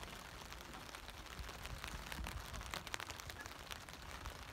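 Rain falling on a tent's fabric fly: a steady hiss with many scattered drop ticks, thickest about two to three seconds in, over a low rumble.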